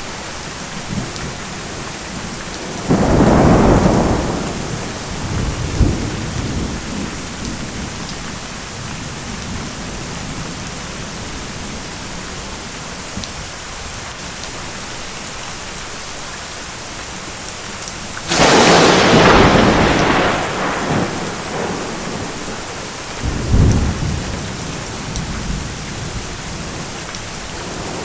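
Steady heavy rain with thunder: a low rumble about three seconds in, a sharp crack of thunder a little past the middle that rolls off into rumbling, and a shorter rumble a few seconds after that.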